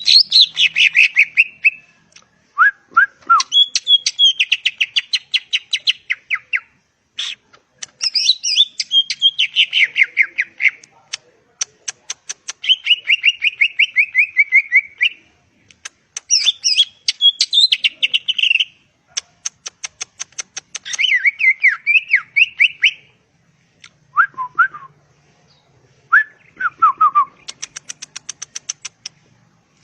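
Cucak ijo (greater green leafbird) singing: loud phrases of fast, chattering trills and clear whistles, each a couple of seconds long, separated by short pauses.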